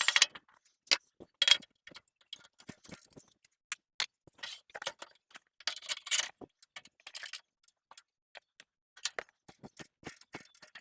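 Irregular light clicks, taps and short scrapes, as of tools or small wooden pieces being handled on a workbench.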